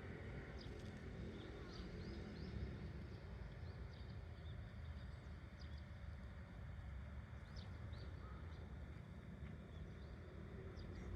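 Small birds chirping here and there, short high chirps over a steady low rumble.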